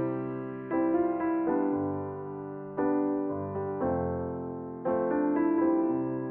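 Background piano music: gentle chords struck about once a second, each ringing out and fading before the next.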